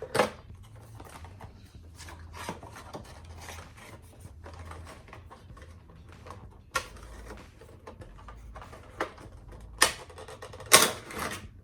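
Handling and opening a Funko Pop vinyl figure's cardboard box and plastic packaging: a run of small clicks and rustles, with a few sharper knocks and a longer rustle near the end.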